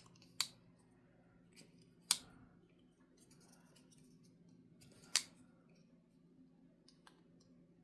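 Kizer Seagull liner-lock pocketknife being flipped open and closed. The blade snaps into lock with sharp metallic clicks: three strong ones a few seconds apart, the loudest about five seconds in, with fainter ticks between.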